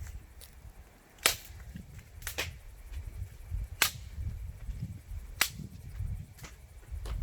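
Axe splitting firewood: five sharp cracks, about one every one and a half seconds, over a low rumble.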